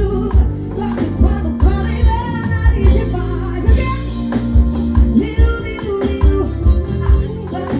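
Live band music with a steady beat and a singer's voice.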